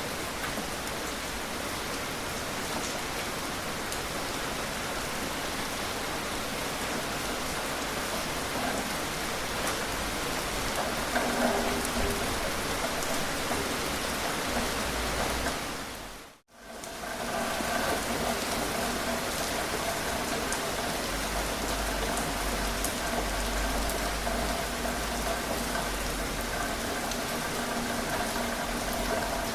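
Steady rain falling, an even hiss of raindrops. About halfway through it fades out to silence for a moment and straight back in, as at a splice in the recording. After that a faint steady hum sits under the rain.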